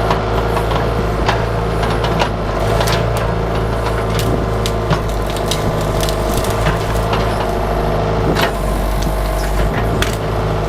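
Bobcat 331 mini excavator's diesel engine running steadily under load, with many sharp cracks and knocks scattered through it as the bucket works through bushes, roots and dirt.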